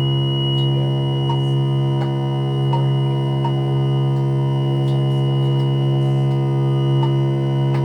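Modular synthesizer holding a steady drone of layered, unchanging tones, with a high thin tone above it and occasional faint short clicks.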